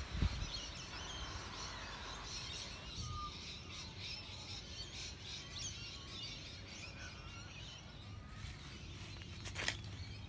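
Birds chirping and twittering: many short, high calls throughout, with one clearer whistled note about three seconds in. A low thump just after the start and a sharp click near the end.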